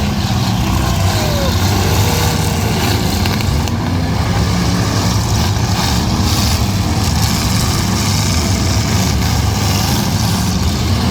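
Several eight-cylinder demolition derby cars running and revving together, a steady loud mix of engines.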